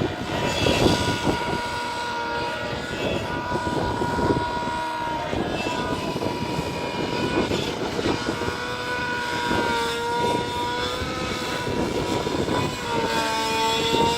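Nitro-engined RC 3D helicopter in flight: a steady high engine and rotor whine that dips slightly in pitch a couple of times as the throttle changes.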